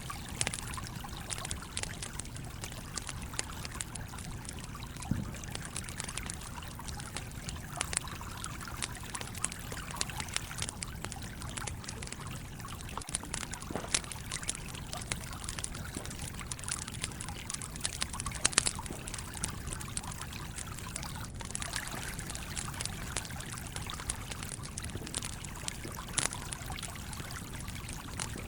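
A stream trickling and flowing steadily, with a wood campfire crackling over it in scattered sharp pops.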